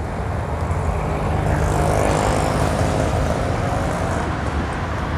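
City road traffic: a steady rumble of engines that swells louder about two seconds in as a vehicle passes close, then eases off.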